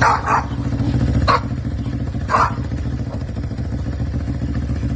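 A dog barking four short times in the first half, over a steady low drone.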